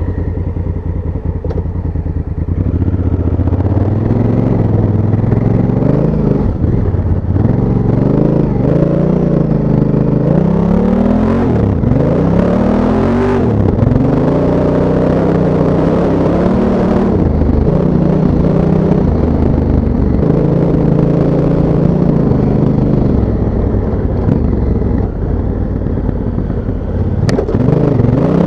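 Honda Africa Twin's parallel-twin engine under way, its pitch repeatedly rising and falling as the throttle is opened and closed and gears change, with rushing noise over it.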